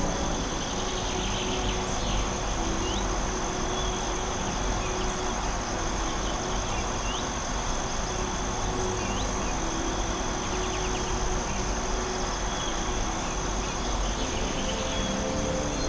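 Forest ambience: a steady high insect trill over a constant even rushing background, with short rising bird chirps every couple of seconds.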